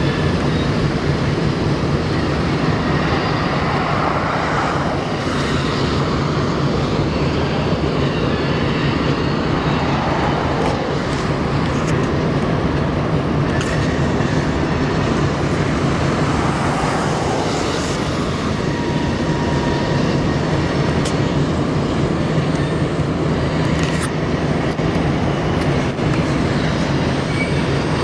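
A train rolling along the track: a steady, continuous noise with scattered clicks.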